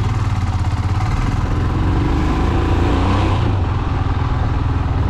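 Royal Enfield Himalayan single-cylinder motorcycle engine running steadily as the bike pulls away, its pitch rising a little partway through.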